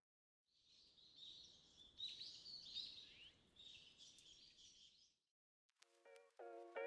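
Faint chirping and twittering of small birds, which stops about five seconds in.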